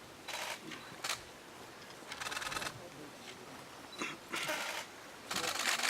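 Camera shutters firing in rapid bursts of continuous shooting, several short runs of quick clicks about a second apart, the loudest run near the end.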